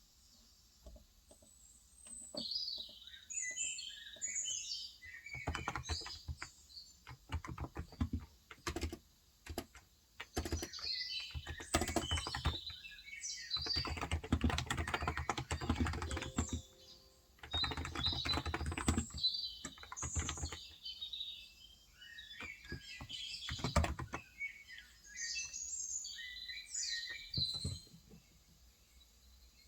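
Typing on a Cox Endeavor electro-capacitive (non-contact) tenkeyless keyboard with 35 g switches. The keystrokes come in runs with short pauses, starting a few seconds in and stopping about four-fifths of the way through. Small birds chirp throughout, most at the start and end.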